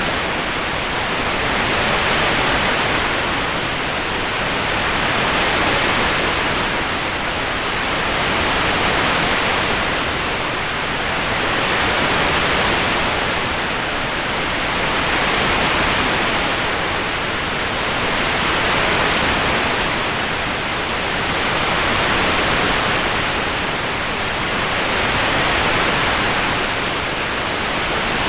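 Rain-sound ambience heard as an even, steady hiss with no distinct drops. It swells and fades gently about every three seconds.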